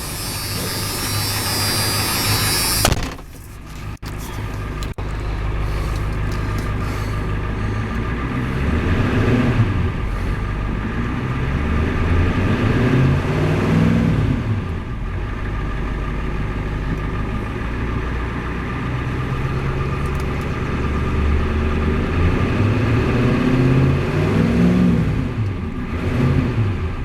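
1992 Ford F350's turbo diesel V8 running, heard from inside the cab. A high buzz cuts off about three seconds in, then the engine is revved up and back down several times between stretches of idle.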